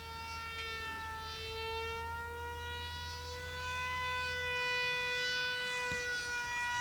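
Motor and propeller of a small RC model aircraft in flight, a steady high whine whose pitch slowly rises and falls.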